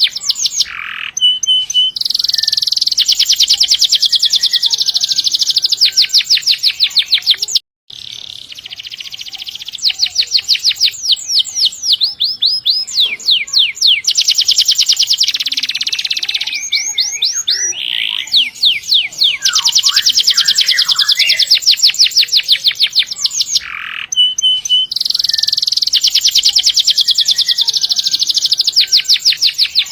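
Canary singing long, fast trills (rapid runs of repeated notes held for several seconds, the 'roll panjang' wanted for tutoring other birds), with some quickly sweeping, falling phrases between them. The song cuts out abruptly for a moment about eight seconds in.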